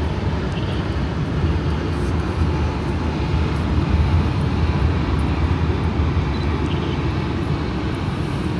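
Steady low rumble of a passenger train crossing a steel arch railway bridge: a class 143 electric locomotive with n-Wagen coaches.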